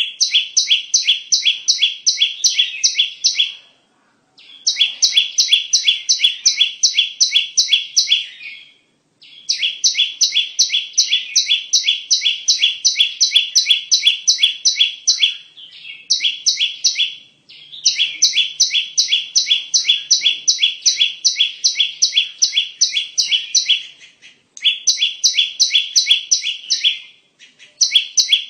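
Bar-winged prinia (ciblek) calling: long runs of sharp, evenly repeated chip notes, about four a second, in phrases of a few seconds broken by brief pauses. It is a lure recording of the kind played to attract ciblek.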